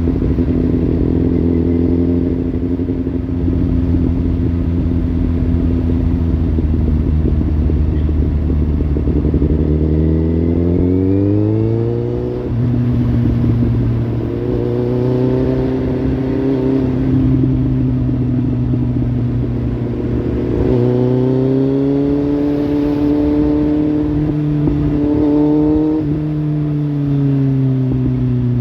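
Kawasaki Z800's inline-four engine running through a Lextek slip-on exhaust. It holds a steady low note for about ten seconds, then climbs and drops abruptly. It holds steady again, climbs a second time and falls back near the end.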